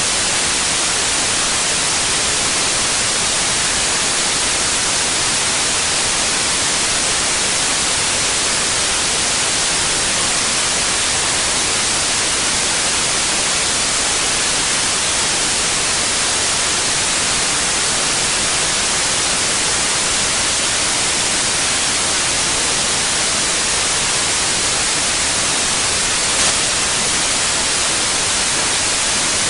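Steady white noise: an even, unvarying hiss, strongest in the upper frequencies. One faint click sounds near the end.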